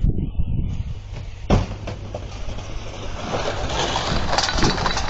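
Vehicle road noise with a low rumble, a sudden hard thud about a second and a half in, then a swelling rushing noise with scattered rattles and clicks.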